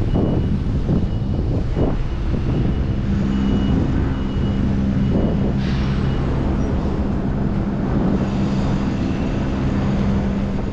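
Traffic noise and wind rumble on the microphone during a bicycle ride in city streets. A steady low engine hum from a nearby vehicle comes in about three seconds in, with faint intermittent high beeping in the first half.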